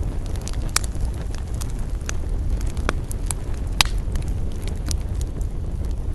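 Campfire crackling: scattered sharp snaps and a few louder pops over a steady low rumble.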